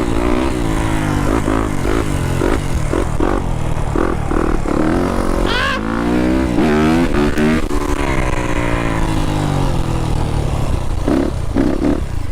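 Dirt bike engine running hard under a rider, its pitch rising and falling as the throttle is worked, with a sharp rev about halfway through that then falls away.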